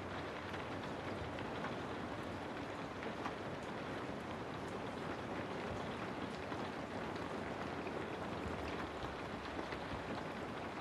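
Steady rain: an even hiss of falling rain with scattered individual drop ticks.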